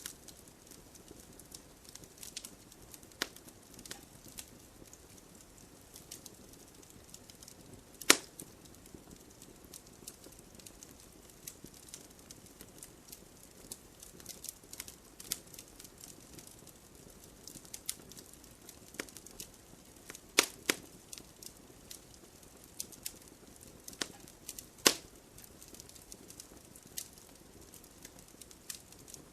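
Wood fire crackling: a steady scatter of small ticks and snaps over a low hiss, with a few louder sharp pops, about eight seconds in, twice close together around twenty seconds, and once more a few seconds later.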